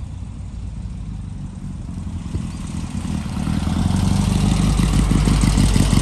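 A passing road vehicle's engine and tyre noise, growing steadily louder as it approaches through the second half.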